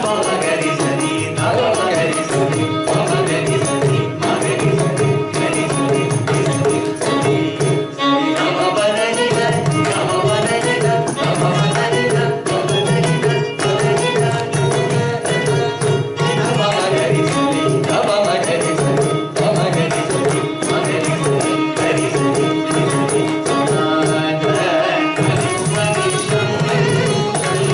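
Carnatic music: a gliding melodic line over a steady low drone, accompanied by frequent mridangam strokes.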